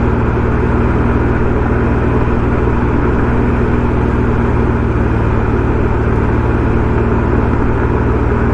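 BMW M140i's turbocharged straight-six engine running at a steady engine speed through a Remus aftermarket exhaust: an even, constant drone with no revving.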